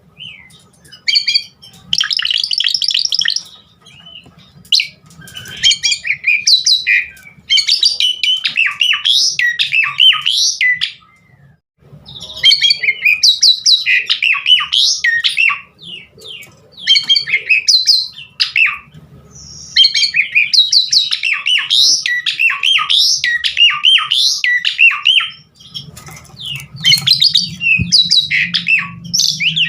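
Asian pied starling (jalak suren) in full song: long runs of rapid, varied chattering and whistled phrases packed with imitated calls, broken by a few short pauses.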